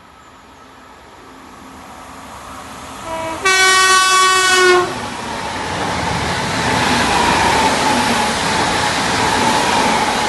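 A train sounds its horn as it approaches at speed: a brief note, then a longer one lasting over a second. The rushing noise of the train builds and then stays loud as it passes, with a steady whine running through it.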